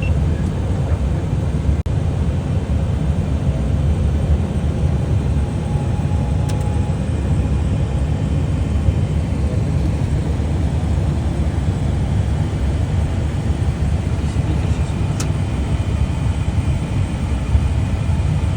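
An EasyJet airliner's engines and airflow make a steady, even low rumble that does not change in pitch or level.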